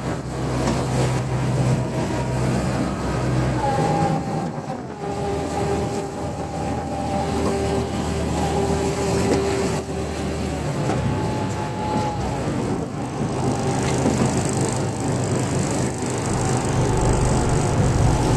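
Ferry boat's engine running steadily under way, a low hum under a broad rushing noise.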